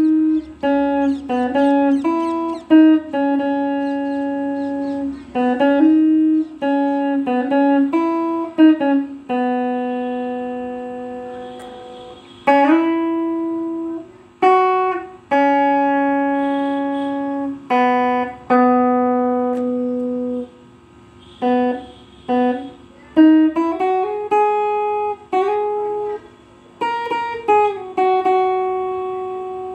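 Guitar playing a slow single-note melody. Plucked notes are held and left to ring, with slides between some of them.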